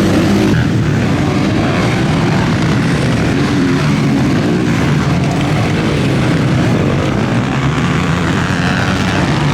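Several motocross bikes racing, their engines revving up and down in a continuous loud mix.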